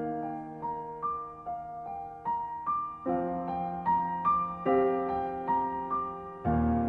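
Background piano music: a gentle melody of single notes over sustained chords, with a new chord struck about every second and a half.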